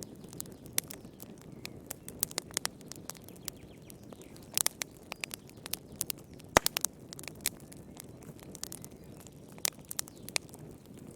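Wood fire crackling in a fireplace: irregular sharp pops and snaps over a low steady rumble of burning, with one loudest pop about six and a half seconds in.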